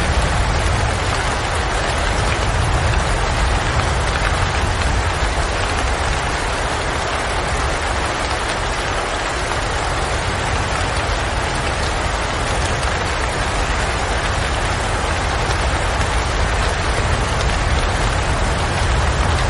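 Steady rain falling, an even unbroken hiss with a low rumble underneath.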